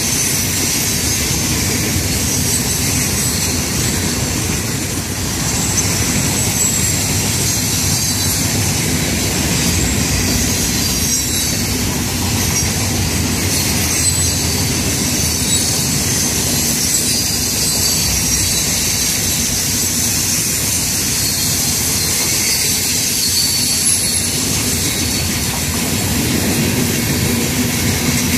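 Freight cars of a long Florida East Coast Railway train rolling past on a curve, a steady rumble of steel wheels on rail. Faint, wavering high-pitched wheel squeal rides over the rumble.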